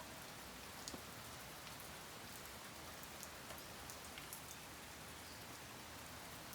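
Steady moderate rain falling, with scattered individual drops ticking sharply on a nearby surface.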